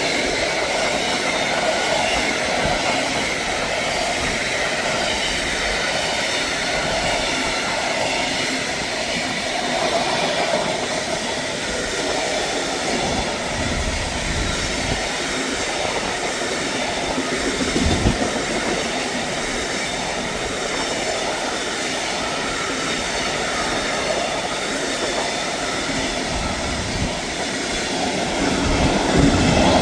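A train running past close by: a continuous loud rolling noise of wheels on rails with irregular knocks and clatter, swelling louder near the end.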